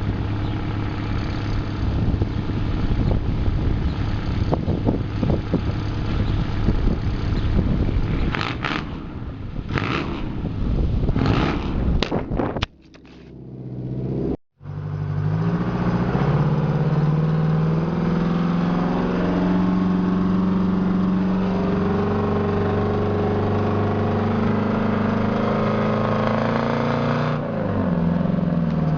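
Straight-piped Detroit Diesel 8V71, a two-stroke V8 diesel, running under load as the truck pulls away and drives. The first half is a rough, clattering exhaust note. The sound then drops out briefly and comes back as a steady pulling drone, which changes pitch slightly near the end.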